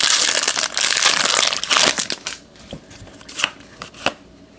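Trading-card pack wrapper being torn open and crinkled for about two seconds, followed by a few light clicks as the cards are handled.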